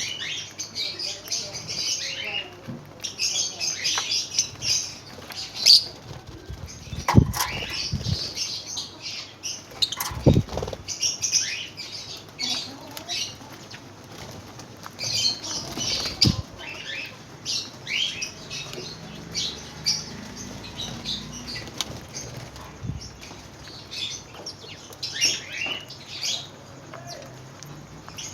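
Many lovebirds chattering with rapid, shrill, overlapping chirps, with a few dull thumps as birds move about.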